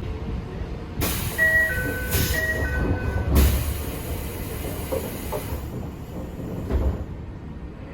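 Toei 5300 series train at a station stop as it readies to depart: a two-note door chime sounds twice, over a long hiss of compressed air, with heavy thuds about three and a half seconds in and near the end.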